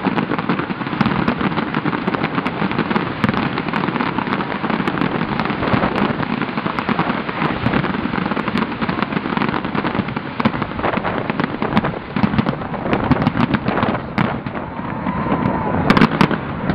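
A New Year fireworks display going off in a dense, continuous barrage of crackling pops and bangs, with a louder crack near the end.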